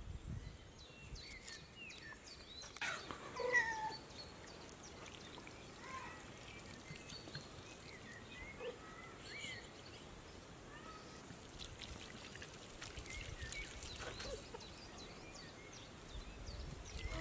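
Faint outdoor ambience with short, scattered bird chirps, and one louder call about three seconds in that slides down in pitch.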